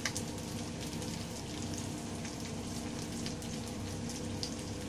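Masala-coated prawns frying in a little oil in a steel kadai, a steady crackling sizzle, with a few light clicks as the spatula turns them.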